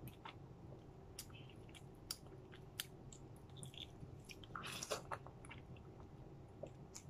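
Faint sounds of a person chewing juicy grapefruit segments: scattered soft wet clicks of the mouth, with a slightly louder stretch about five seconds in.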